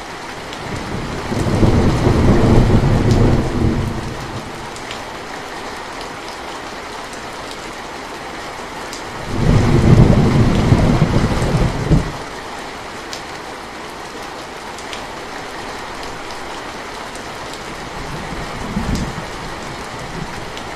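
Steady rain with thunder: two loud low rumbles, each lasting two to three seconds, and a fainter, shorter rumble near the end.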